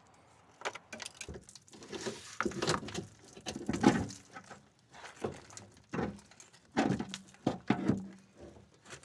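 Irregular knocks, clanks and scrapes of hands and tools working on a car's rusty underside, removing the fuel tank and its fittings.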